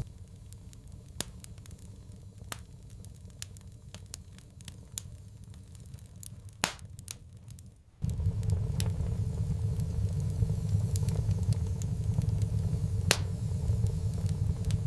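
Wood fire crackling, with scattered sharp pops and a cluster of louder snaps about halfway through. About eight seconds in, a steady low rumble cuts in abruptly under the crackling.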